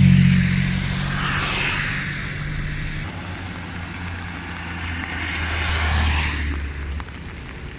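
Motor vehicle engine running, loudest in the first moment and easing off over the first few seconds. A lower engine note carries on until it drops away about seven seconds in, with rising and falling hiss from tyres or air rushing past.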